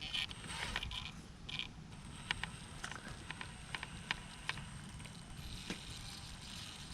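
Small RC rock crawler's electric motor and gears whirring in short spurts, then scattered light clicks and taps as the truck works over the rocks of the course.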